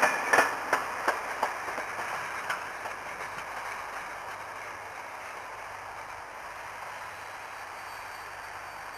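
A diesel-hauled standard-gauge train rolling slowly through the station, its wheels clicking over rail joints about three times a second. The clicks thin out and fade over the first few seconds, leaving a steady, quieter rumble.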